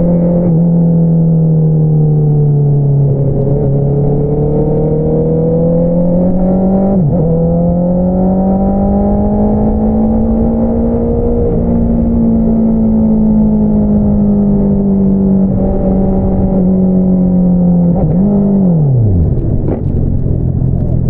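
Honda CBR650R's inline-four engine running through an Akrapovič single-outlet exhaust under way. The pitch dips, climbs slowly and holds steady, with a brief drop about a third of the way in. Near the end the revs fall steeply as the throttle closes.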